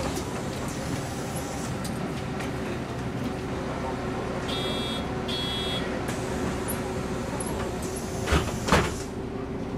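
MAN NG 313 articulated city bus's diesel engine running with a steady drone. Two short high electronic beeps come about halfway through, and two knocks come near the end.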